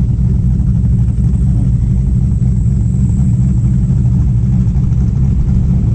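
Steady low engine drone and road rumble heard from inside a moving car.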